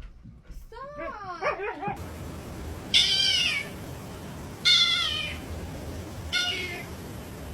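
A cat meowing: a few soft, wavering calls about a second in, then three loud, high-pitched meows roughly a second and a half apart, the last one shorter and fainter.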